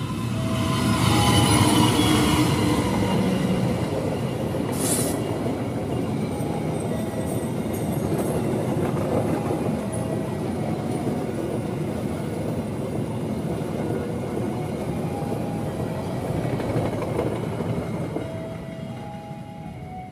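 A passing train running along the rails, a dense steady rumble of wheels and cars that swells in the first couple of seconds and fades near the end, with a brief high screech of the wheels about five seconds in.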